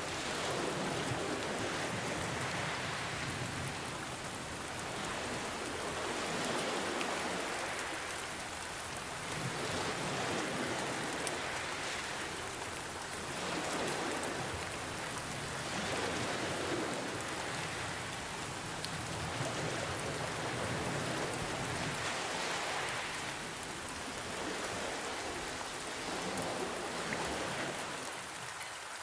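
Steady rain falling, with soft ocean waves swelling and washing in every few seconds.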